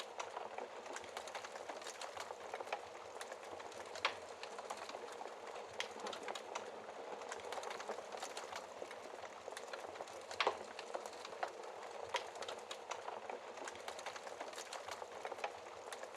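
Fire crackling in a fireplace behind a glass shield: a steady hiss with frequent small pops and a few louder snaps, one about four seconds in and one about ten seconds in.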